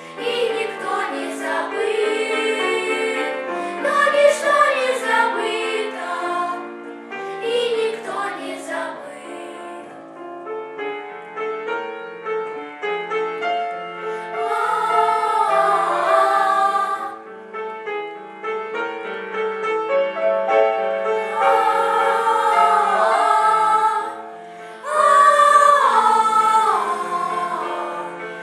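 A vocal ensemble sings a song in several voices with instrumental accompaniment. About ten seconds in the singing thins to a quieter passage, then comes back fuller.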